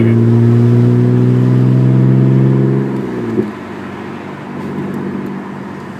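2001 BMW 325i's 2.5-litre straight-six running with no exhaust after the headers (no cats, no mufflers), pulling loud with a steady drone. About three seconds in the throttle comes off and it drops to a quieter run.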